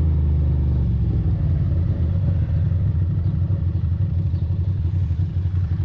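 Ducati Monster's V-twin engine running under way, a low steady drone for about the first second that then turns choppy and uneven.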